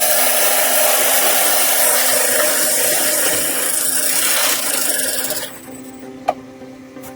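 A tool abrading wood: a loud, steady, rough scraping hiss that stops about five and a half seconds in, followed by a single sharp tap.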